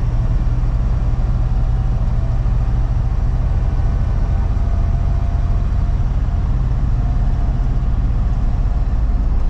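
Freightliner box truck's engine and road noise heard from inside the cab while driving: a steady low rumble.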